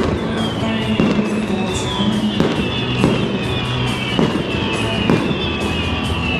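Fireworks show: repeated sharp bangs and crackles of aerial shells bursting, over loud music played through stadium speakers.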